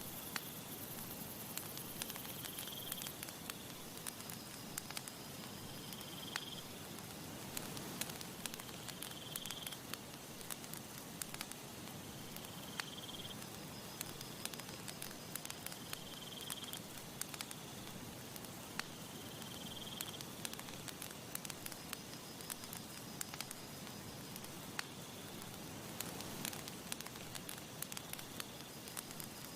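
Campfire crackling, with frequent sharp pops and snaps over a steady soft hiss. A short, high chirp, typical of a cricket, repeats about every three seconds.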